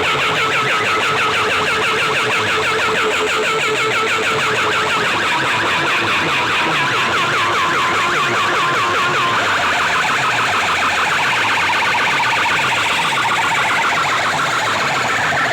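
Competition DJ sound system playing electronic alarm-like warbling tones over a fast repeating low pulse, very loud and unbroken; the tones shift higher about two-thirds of the way through.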